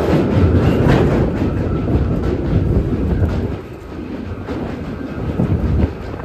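New York City subway train running along the rails, its wheels clacking over the rail joints. The sound is louder for the first three and a half seconds, then drops and continues more quietly.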